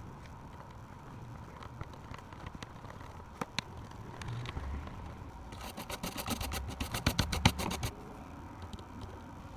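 Quick scraping clicks from hand-tool work on the repair bench, a dense run of about ten a second lasting some two seconds past the middle. Under it is a low steady background hum like distant traffic.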